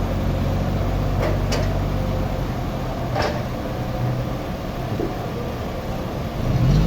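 Sawmill machinery running at a low, steady note, with a few sharp knocks; the engine revs up near the end.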